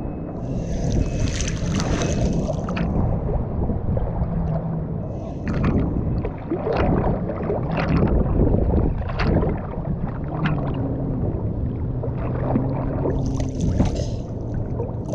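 Jet ski engine running on the water, its pitch shifting, with bursts of hissing spray and splashing about a second in and again near the end, and several sharp slaps of water in between.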